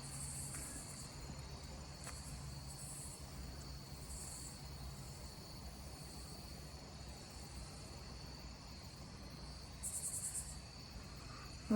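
Insects chirping outdoors: a steady high trill, with short bursts of higher, pulsing chirps coming in every few seconds.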